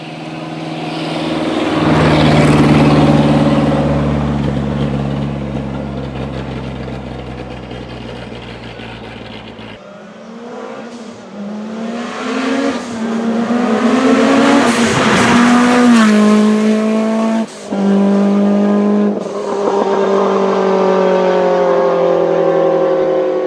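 Historic racing cars driving hard up a hillclimb course. One car passes close and fades away. About ten seconds in, another car is heard accelerating, its engine note rising and dropping through several upshifts.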